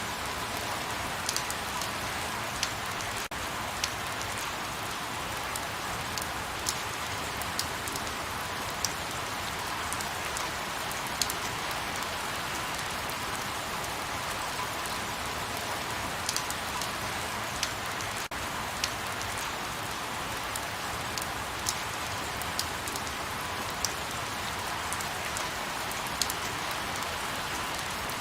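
Light rain falling steadily, an even hiss with scattered sharp drip ticks of single drops landing.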